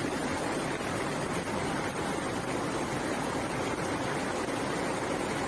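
Floodwater rushing: a steady, dense noise of flowing water that does not let up.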